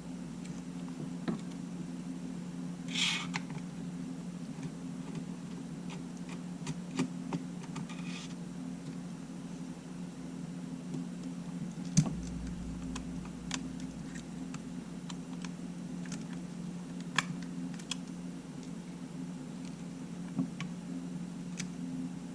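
Scattered small clicks and taps of tools and small camera parts being handled on a workbench, over a steady low hum, with a short scrape or rustle about three seconds in and another about eight seconds in.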